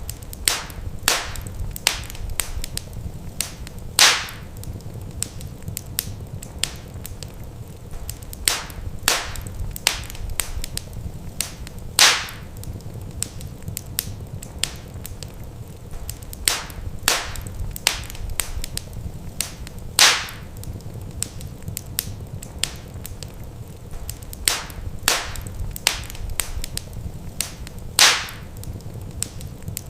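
Wood fire crackling in a fireplace: scattered sharp pops and snaps over a steady low rumble, with a louder pop about every eight seconds.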